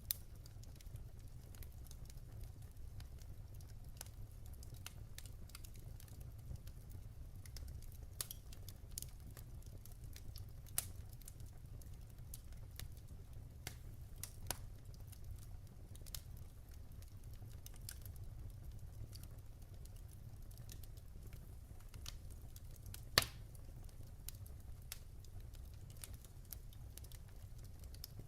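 Wood fire burning in a fireplace, with a low steady rumble and scattered sharp crackles and pops from the logs, the loudest pop about 23 seconds in.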